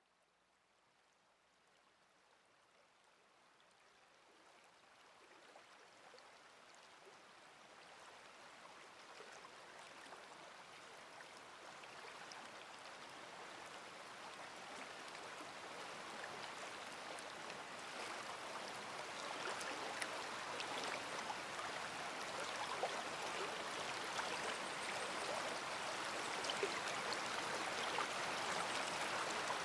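Large river flowing: a steady rush of water with small scattered splashes. It fades in from silence and grows steadily louder over about twenty-five seconds.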